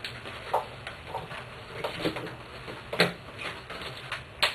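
Handling noise from putting a soft bonnet hair dryer's fabric cap on over a plastic bag: irregular light rustles and clicks, with two sharper knocks, one about three seconds in and one near the end.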